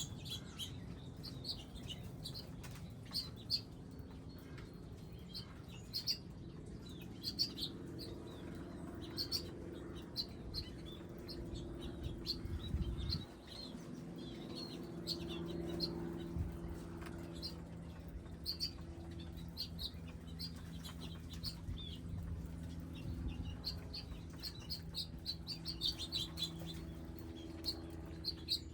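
Small wild birds giving short, repeated high chirps and calls at a garden feeding area, over a steady low hum.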